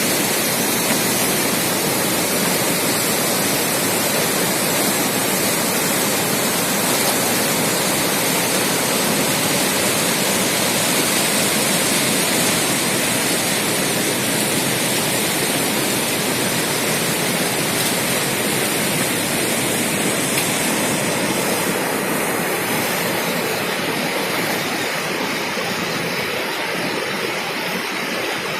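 Uchar waterfall: a loud, steady rush of falling water, its highest hiss easing slightly near the end.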